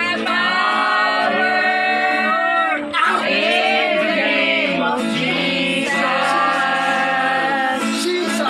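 Worship song: several voices singing together in long held notes over steady sustained accompaniment, with a new phrase starting about three seconds in.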